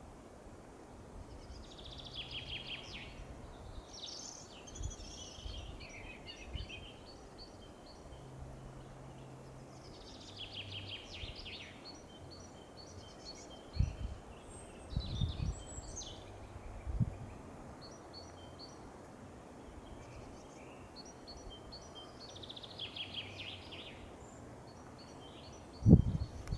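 Several songbirds singing in woodland: one bird repeats a short song phrase three times, about ten seconds apart, while another keeps up rows of short high notes. A few low thumps come in the middle and near the end.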